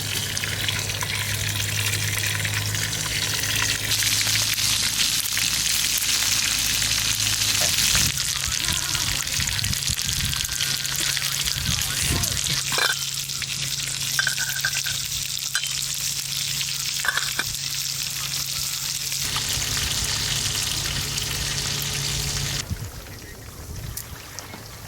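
Food frying and sizzling over a campfire, a dense steady hiss with scattered crackles and a low steady hum beneath. The sound shifts abruptly a few times and drops quieter near the end.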